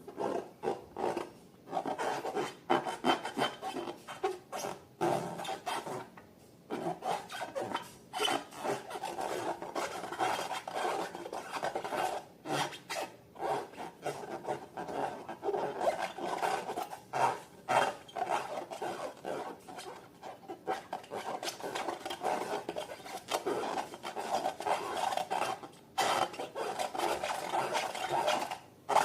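Slime being worked by hand in a dense run of small sticky crackles and clicks, with brief pauses twice.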